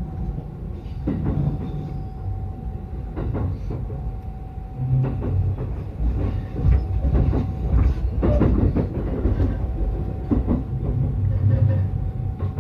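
Yokosuka Line electric commuter train running along the track: a steady low rumble with irregular clacks of the wheels over rail joints and a faint steady whine.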